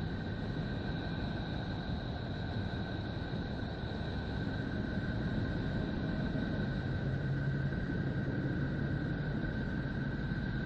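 Eerie 'planet sound' space recording: a steady rumbling drone with hiss, two high tones held throughout, and a low hum that joins about seven seconds in.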